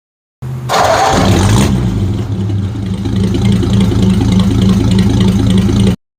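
1950 Ford F1's flathead V8 starting, catching within a moment, then running at a steady idle. It cuts off suddenly near the end.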